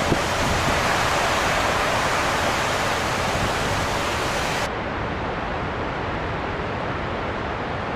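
Steady storm ambience of heavy rain and wind, a dense, even hiss. A little over halfway through, the top of the hiss cuts off abruptly and it becomes slightly duller and quieter.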